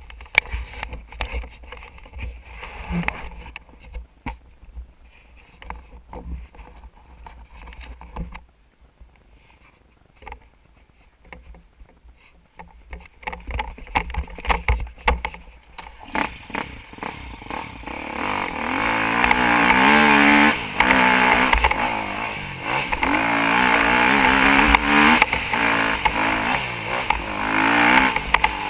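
Motocross bike engine running and revving up and down, coming in about halfway through and louder from about two-thirds in. Before it, scattered knocks and a low rumble.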